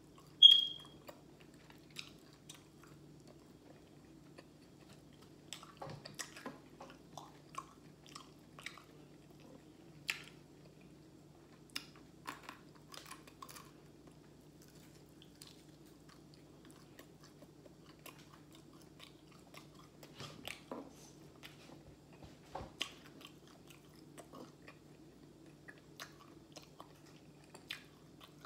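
Close-up chewing and biting of crispy fried chicken, with scattered crunches and mouth clicks. A single short, sharp high ping about half a second in is the loudest sound, over a faint steady low hum.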